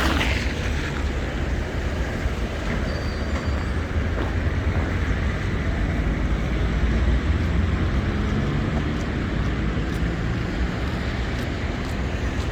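Steady city street traffic noise with a heavy low rumble from passing vehicles, on rain-wet roads. A short high tone sounds once about three seconds in.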